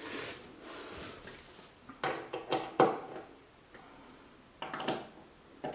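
A short hiss, then scattered sharp clicks and knocks of a screwdriver and screws against a guitar amplifier's metal chassis as screws are driven in.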